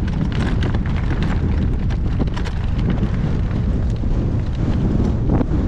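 Strong gusting wind buffeting the microphone, a loud steady rumble with scattered short knocks and rustles through it.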